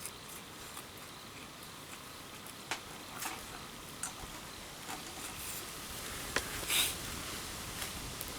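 Wood campfire crackling: a steady hiss broken by irregular sharp pops and snaps, the loudest a pair of pops more than halfway through.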